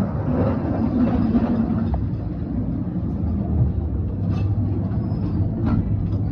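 Ghost train ride car rumbling steadily along its track.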